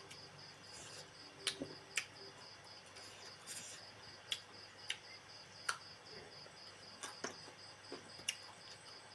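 A cricket chirping steadily in the background, a rapid pulsed high note, with about a dozen sharp clicks scattered irregularly over it.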